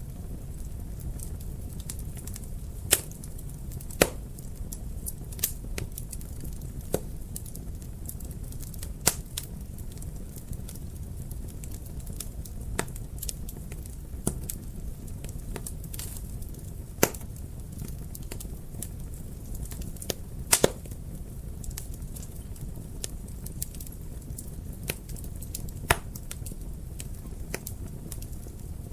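Wood fire burning in a fireplace, with a steady low rumble and irregular sharp pops and crackles, a few of them loud.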